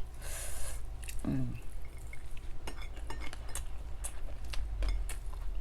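Eating sounds: cutlery clicking and scraping against a plate in scattered sharp clicks, after a short noisy rustle at the start and a brief falling vocal sound about a second in.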